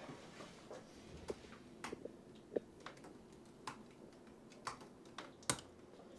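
Faint typing on a computer keyboard: sparse, irregular keystroke clicks.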